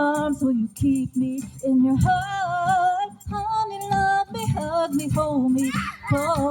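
Woman singing a slow love song, holding long notes with a wavering vibrato.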